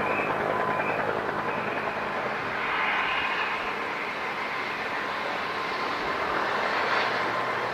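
Airliner's engines running, a steady rushing noise with a faint high whine, swelling slightly about three seconds in.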